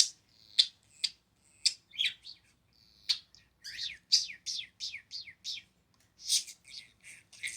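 Male budgerigar chattering in runs of short, quick chirps, many falling in pitch, with a couple of brief pauses: courtship chatter aimed at a fig.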